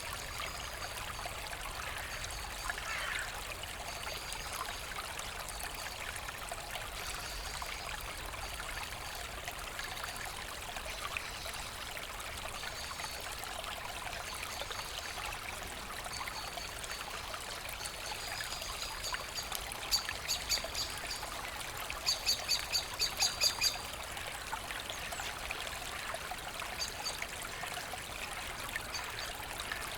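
Forest brook babbling steadily over stones, with birds calling faintly. About two-thirds of the way in, a bird gives two short runs of rapid high chirps.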